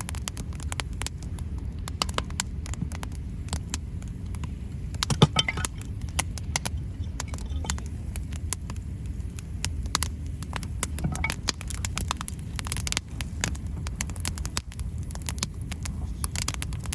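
Wood campfire crackling, with many small irregular snaps and one louder pop about five seconds in, over a low steady rumble.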